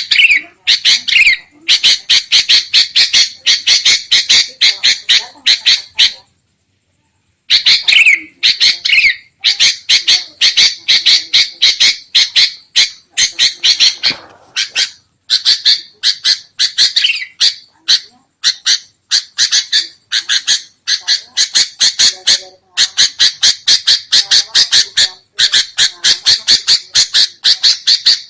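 Sooty-headed bulbuls chattering noisily, about five harsh notes a second in runs of several seconds, with a short silence about six seconds in; this agitated chatter is played as a lure call to draw in wild bulbuls.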